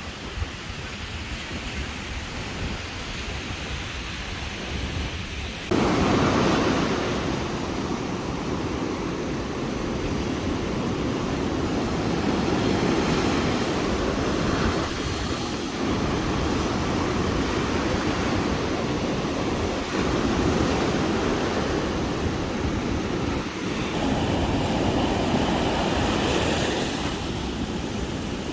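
Caribbean surf washing on the beach, a steady rush with wind on the microphone. It jumps abruptly louder about six seconds in.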